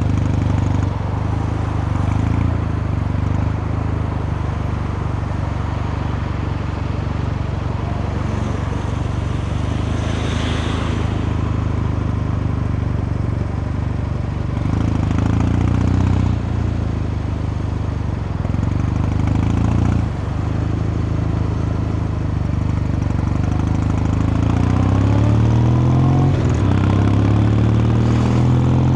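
Kawasaki Meguro K3's vertical-twin engine and exhaust running under way. It rises in pitch twice around the middle, each climb ending in a short dip like a gear change, and climbs steadily again near the end.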